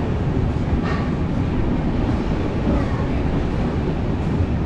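Steady low rumble of a moving passenger train heard from aboard, wheels running on the rails, with a brief higher-pitched sound about a second in.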